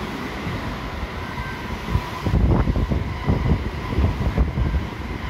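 JR West 223 series electric multiple unit pulling out of the platform and running past. It gets louder and more uneven about two seconds in, with a faint steady whine under it.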